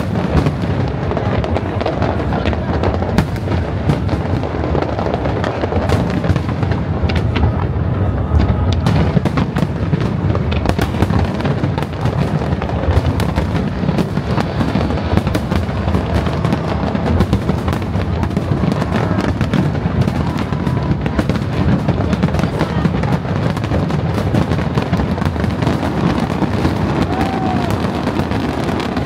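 Aerial fireworks display going off in a dense, continuous barrage of booms and crackling bursts, with no pause.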